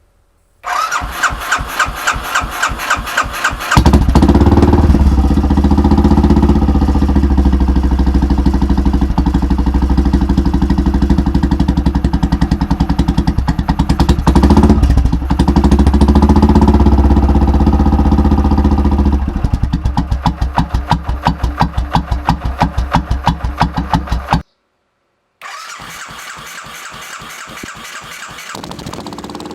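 Royal Enfield Bullet 500's single-cylinder engine breathing through a free-flowing aftermarket universal silencer: it starts about a second in and runs at a loud, thumping idle, is revved up and let back down twice, then settles back to the pulsing idle.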